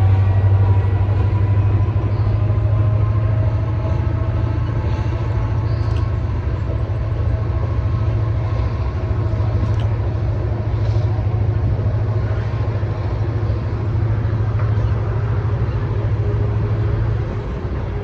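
EMD SD40-2 diesel-electric locomotive's turbocharged 16-cylinder two-stroke engine running under heavy load, a loud steady low drone with steady higher tones over it, easing slightly in level.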